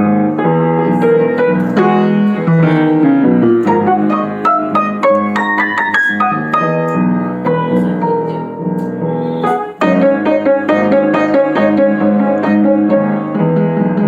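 Piano music with many quick notes over a steady low accompaniment, breaking off briefly near the ten-second mark before carrying on.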